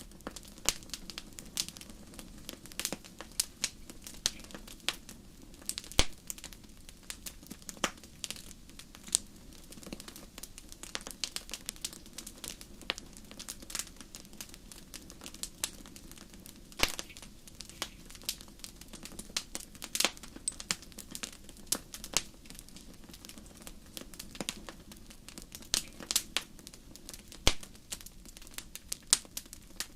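Fireplace fire crackling: a steady stream of irregular sharp pops and snaps, a few of them louder, over a quiet steady low noise.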